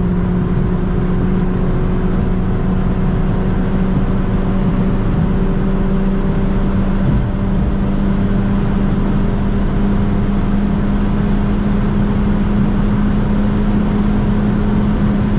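Steady in-cabin drone of a MINI Clubman John Cooper Works R55's turbocharged four-cylinder engine at constant revs at high speed, over dense road and wind noise.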